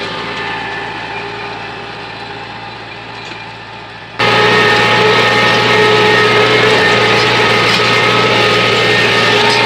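Tractor's diesel engine running steadily, slowly fading, then abruptly much louder and brighter about four seconds in, and steady again after that.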